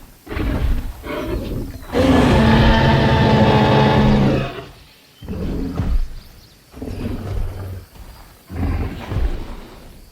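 Dinosaur roars: a series of short roars with one long, loud roar starting about two seconds in and lasting some two and a half seconds.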